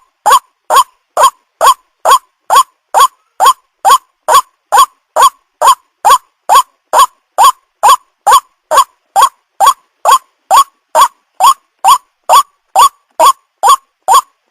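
White-breasted waterhen (ruak-ruak) calls played as a lure recording: a steady series of short, identical call notes, a little over two a second, each rising quickly in pitch.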